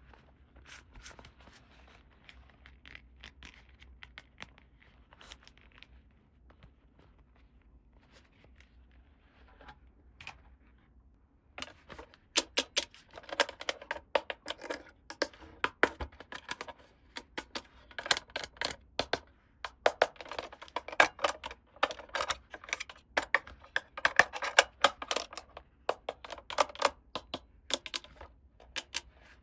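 Hands handling toy packaging and small toy pieces: faint scattered clicks and rustles at first, then from about twelve seconds in a busy run of sharp clicks, taps and rustling.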